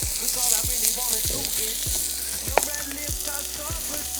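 Chicken sizzling steadily on a thick steel griddle plate over a hot Swedish torch log fire, with one sharp pop about two and a half seconds in.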